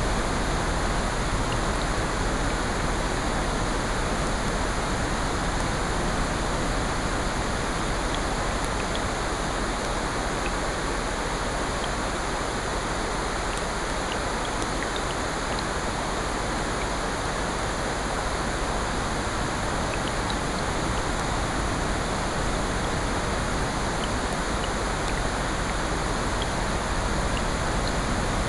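Layered sleep ambience of steady rain and ocean surf with a fireplace: a dense, even rush of noise with scattered faint crackling ticks.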